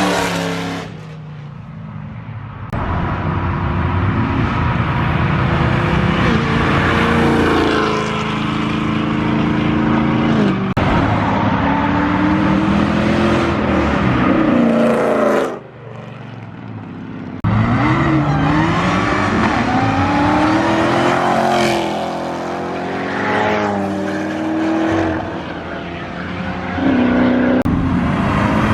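Performance car engines revving and accelerating hard as cars pass one after another, the engine pitch repeatedly climbing and dropping through gear changes. The sound breaks off abruptly a few times between passes.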